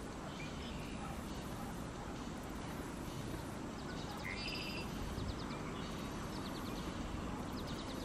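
Small marsh birds calling in short, rapid high trills, several times over a few seconds, over a steady low rumble of wind on the microphone.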